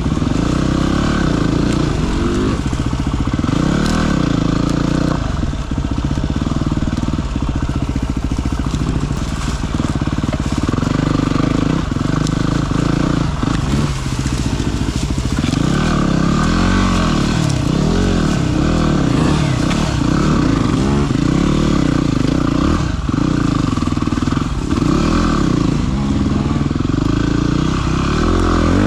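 Single-cylinder dirt bike engine running under way, its revs rising and falling constantly with the throttle, with a few brief dips as the throttle is rolled off.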